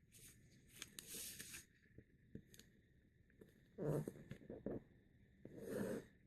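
Sheet of printing paper rustling and scraping as it is folded and creased by hand, in a few short bursts.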